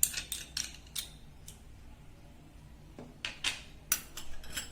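Short sharp scrapes and clicks of a spoon against a bowl as ingredients are added to minced chicken, in two quick clusters: one right at the start and another in the last second and a half.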